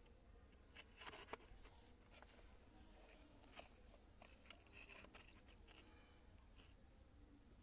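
Near silence: low background hum with a few faint clicks and some short, faint high chirps.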